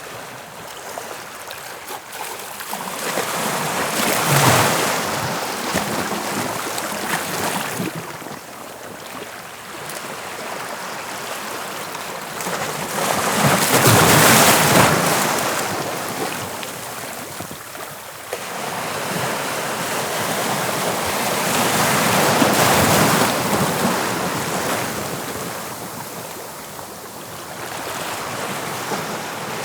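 Sea surf breaking on the shore and washing back, a rushing hiss that swells and falls away every several seconds, with three big surges, the loudest about halfway through.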